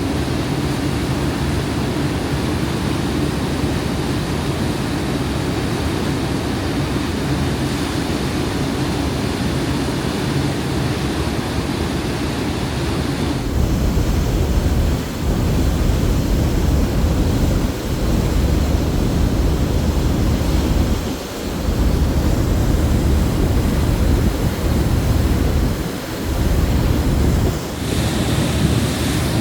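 Wind rushing over the microphone with the steady wash of water, heard aboard an Incat high-speed catamaran car ferry under way. About halfway in the wind gets stronger, with deep buffeting that drops out briefly a few times.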